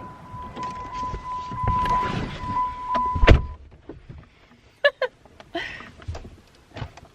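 A steady electronic beep on one pitch that holds for about three and a half seconds and cuts off suddenly. A loud thump comes just before it ends, and two sharp clicks follow about a second and a half later.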